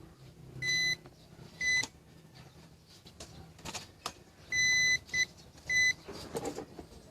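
Electronic beeper sounding five short beeps of one steady high tone at irregular intervals, the third one longer. Sharp clicks and taps come between them, with a duller knock near the end.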